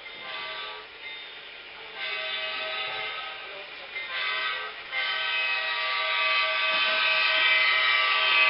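Diesel locomotive horn from a sound-equipped HO model locomotive's speaker, sounding the grade-crossing pattern of long, long, short, long, the last blast held and growing louder.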